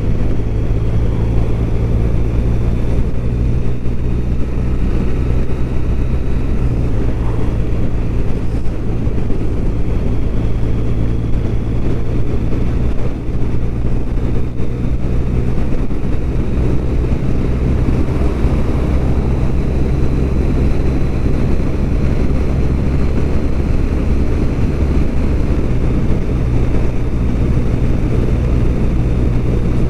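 BMW R1200RT's flat-twin engine running at a steady cruise, with a constant rush of road and wind noise.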